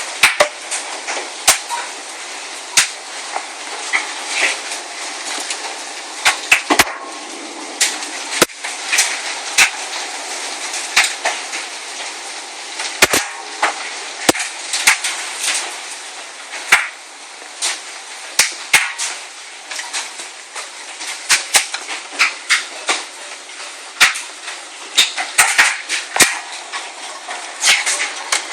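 Large hailstones pelting the house: a steady hiss of falling hail and rain, broken by sharp, irregular cracks and knocks as individual stones strike, some much louder than others.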